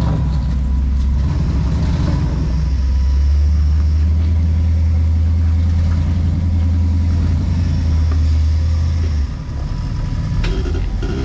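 Off-road rock crawler's engine pulling under load, a steady low drone that drops off suddenly about nine seconds in.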